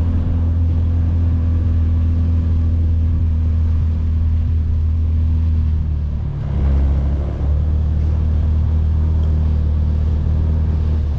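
Can-Am Defender side-by-side engine running steadily while plowing snow. Its note shifts and briefly swells about six and a half seconds in.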